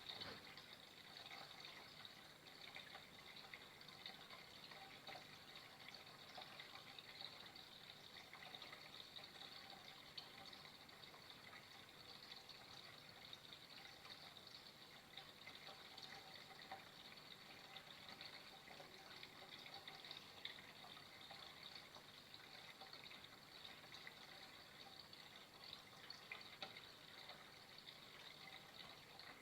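Faint, steady trickle of flowing water.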